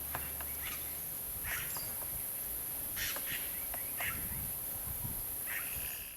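Wildlife ambience: a steady high-pitched insect drone with scattered short bird chirps and a few light clicks. The sound fades out near the end.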